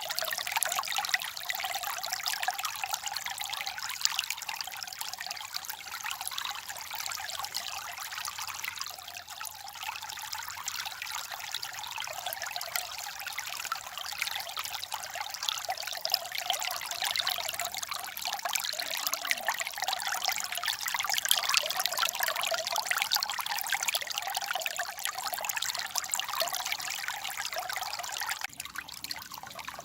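Babbling stream: water trickling and splashing in a steady, busy rush. The sound dips and changes character about 28 seconds in.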